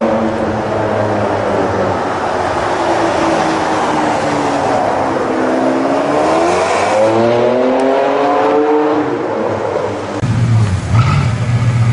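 A high-performance car engine revving as the car accelerates. Its note sinks, then climbs twice. About ten seconds in, it gives way abruptly to a deeper, louder steady engine rumble.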